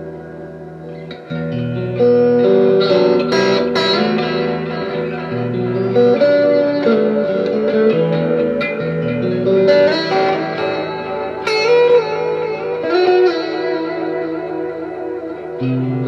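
Electric guitar, a Fender Stratocaster played through a rack effects unit with reverb, noodling chords and melodic single notes. A ringing chord fades at first, then the playing gets louder about two seconds in.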